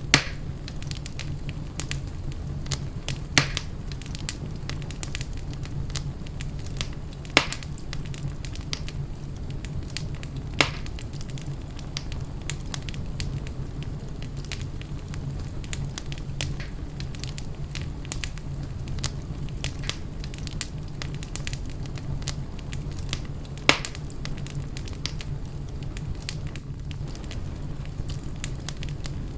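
Wood fire in a fireplace crackling steadily over a low rumble, with a handful of louder sharp pops scattered through.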